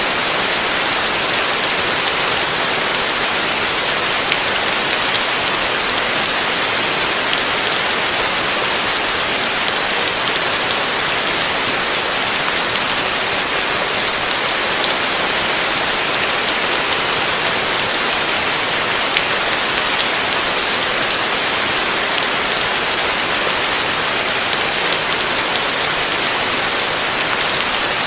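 Heavy rain falling steadily on a roof: an even, dense hiss with fine pattering of drops and no change in strength.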